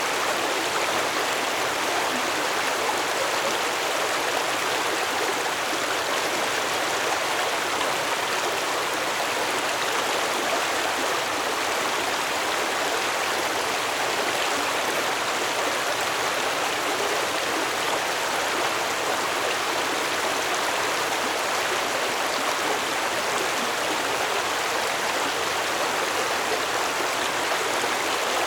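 Stream water flowing steadily, an unbroken rushing and babbling of water.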